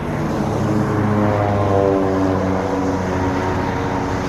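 A car engine running with a steady drone, its pitch rising gently over the first couple of seconds and then holding.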